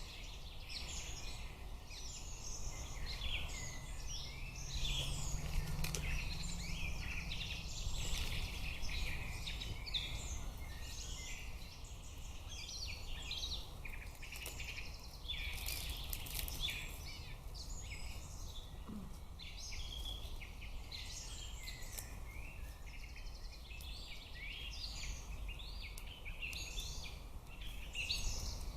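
Many songbirds singing at once in woodland, a continuous chorus of overlapping chirps and trills, over a steady low rumble.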